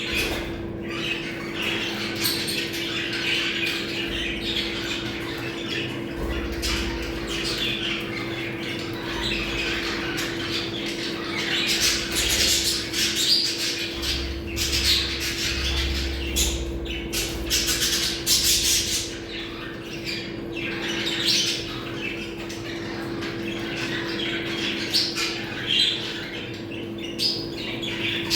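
Budgerigars chattering, warbling and squawking continuously, the calls overlapping with no pauses, over a steady low hum.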